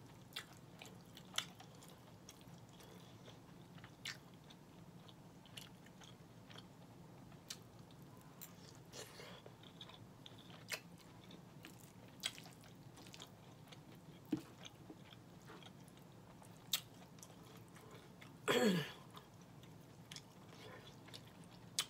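Close-miked chewing of a mouthful of red beans and rice and smoked turkey, with scattered sharp clicks and smacks every second or two. About eighteen seconds in, a short falling vocal hum.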